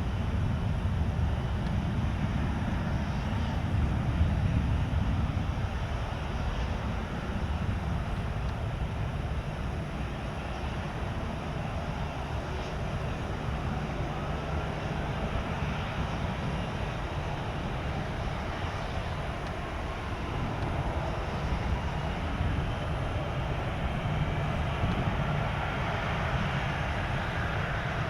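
Jet aircraft engines running: a steady low rumble, with a faint higher whine rising over the last several seconds.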